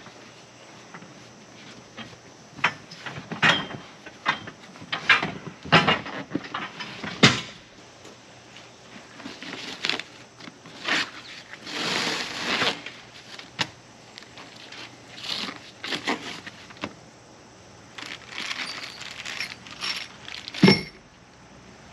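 Unboxing and handling of heavy steel sled parts: irregular knocks and clicks with crackling and rustling of packaging, and a heavy thump near the end.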